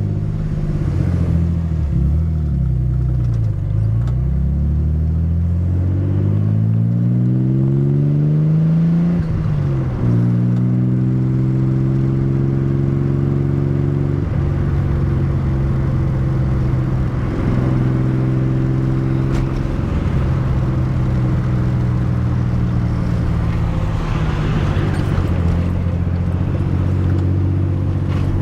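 Nissan 300ZX twin-turbo 3.0 V6 (VG30DETT) pulling hard through a gear, its revs climbing for about seven seconds. The revs drop sharply at a gearshift about ten seconds in, then the engine holds fairly steady revs with a few brief dips.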